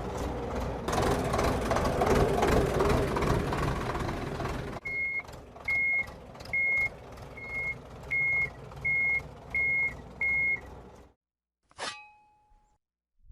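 Heavy vehicle engine running, then a reversing alarm beeping eight times, about one beep every three-quarters of a second, over a low engine hum. The sound cuts off suddenly, followed by a brief swish near the end.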